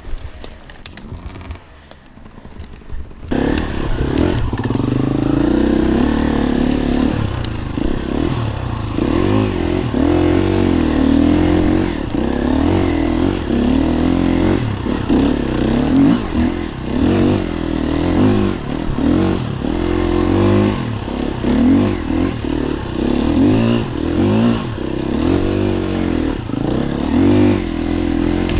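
Enduro dirt bike engine running, its revs rising and falling over and over. It comes in loud about three seconds in, after a quieter stretch of clicks and knocks.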